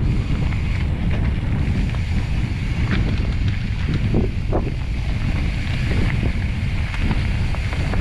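Wind buffeting the microphone of a mountain biker riding fast downhill on a dirt trail, with the bike's rolling noise and a couple of short knocks about four seconds in.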